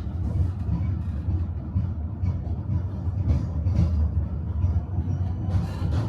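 Tram running on its rails, heard from inside the car: a steady low rumble with a few brief hissing bursts, one about three seconds in and one near the end.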